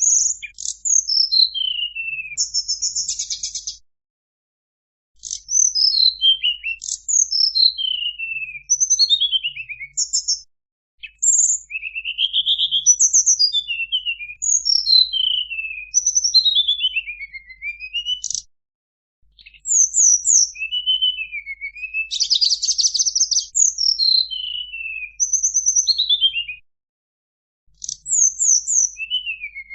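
Tledekan gunung singing: high-pitched phrases of rapid notes sliding downward, some of them buzzy, repeated with short pauses between the phrases.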